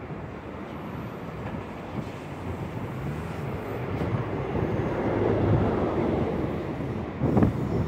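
Class 43 HST power car's diesel engine and train running past close below. The rumble builds as it approaches and is loudest about five to six seconds in as the power car passes underneath, with a brief louder burst near the end.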